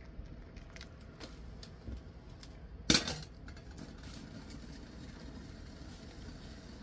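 Scattered light clicks of small objects being handled, then a sharp clink of tableware about three seconds in, over a steady low rumble.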